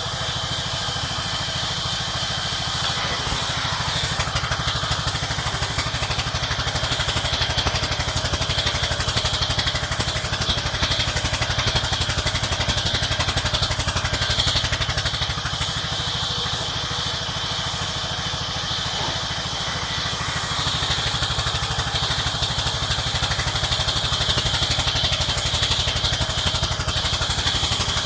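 Village sawmill running: its engine chugs steadily, with a constant high hiss over it. The sound swells slightly a few seconds in and again near the end.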